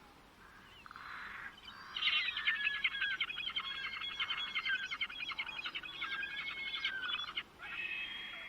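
A bird singing a long, fast run of chirping notes, then a single held high whistle near the end.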